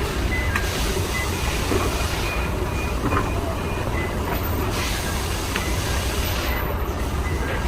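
A vehicle engine running with a steady low rumble, with short high squeals coming and going and a few light knocks.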